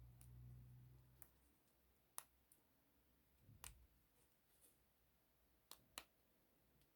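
A handful of faint, sharp clicks and taps, irregularly spaced a second or so apart, over near silence; a low hum fades out about a second in.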